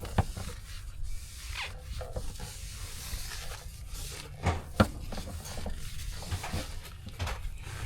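Foam pipe insulation being worked along a capped copper refrigerant line, rubbing and scraping, with scattered light knocks and one sharper knock a little under five seconds in.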